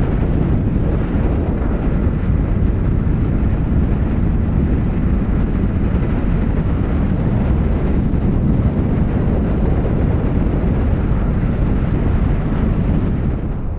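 Honda Rebel 300 motorcycle under way: steady rush of wind over the microphone mixed with the engine running at cruising speed.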